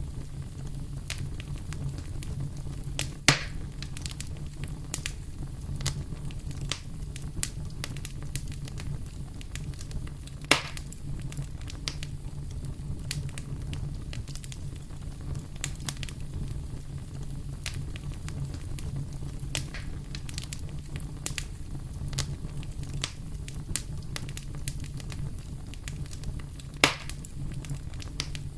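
Wood fire crackling in a fireplace: scattered small crackles over a steady low rumble, with three louder pops, about three seconds in, about ten seconds in and near the end.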